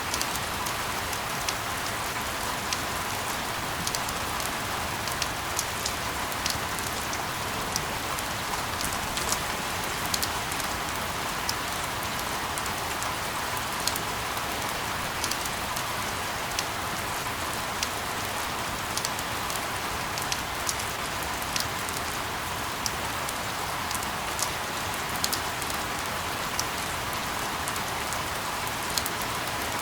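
Steady rain: an even hiss with many scattered, sharp drop ticks.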